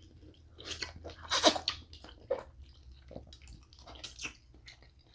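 Wet chewing and sucking noises from eating snow crab leg meat, with irregular small clicks; the loudest burst comes about a second and a half in.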